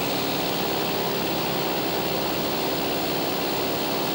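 A Cessna's piston engine and propeller droning steadily in cruise, heard from inside the cabin with a hiss of rushing air over it.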